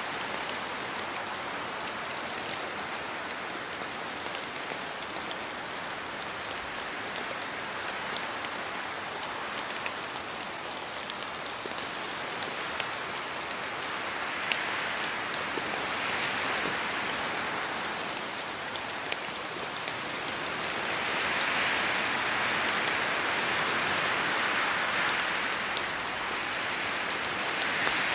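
Steady rain falling, with many individual drops ticking through the hiss. It swells louder about halfway through and again for several seconds later on.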